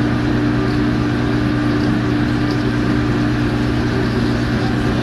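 Steady mechanical hum: an even, unchanging drone with a low steady tone and a higher one over it, and a noisy hiss on top.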